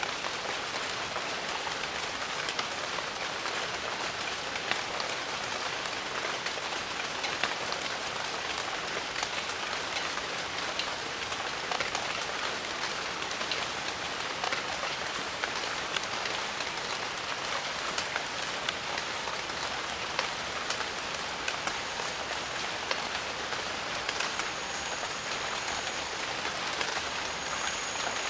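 Steady jungle rain: an even hiss with many individual drops tapping through it. A faint, thin, high steady tone joins in near the end.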